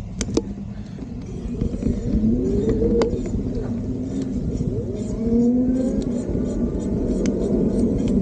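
Riding an electric bike: steady wind and road rumble, with a pitched whine that rises and falls a few times and a couple of sharp clicks about a second in.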